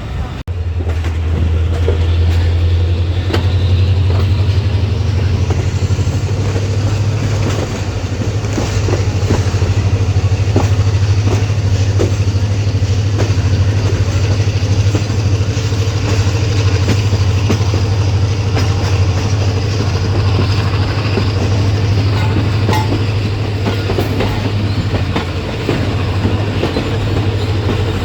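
Passenger train running at speed: a steady low rumble, with the wheels clicking irregularly over rail joints.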